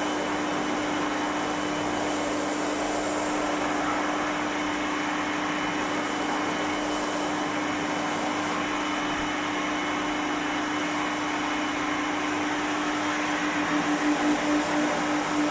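Hair dryer blowing steadily on a cat's fur, a constant airy noise with a steady hum. Near the end the sound starts to waver in quick pulses.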